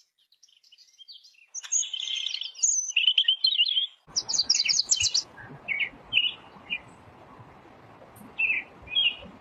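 A songbird chirping and twittering in quick high trills and short notes. About four seconds in the background suddenly changes to a steady hiss, as from a second recording, with a fast run of notes right after and then separate chirps.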